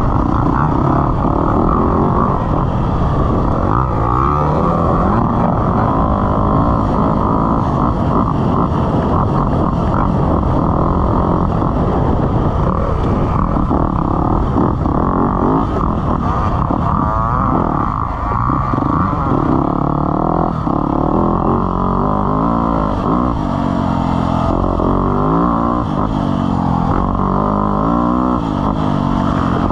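Motocross dirt bike engine running under load as it is ridden around a track, its pitch rising and falling over and over with throttle and gear changes.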